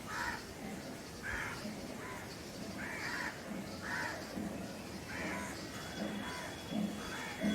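Crows cawing repeatedly, about one caw a second. Soft low thumps come in during the second half.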